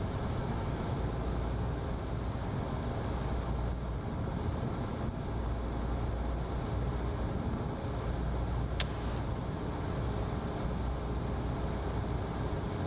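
Single-engine Cessna's piston engine and propeller droning steadily in the cockpit, throttled back to about 1700 RPM with carb heat on for the pattern descent. A brief click about nine seconds in.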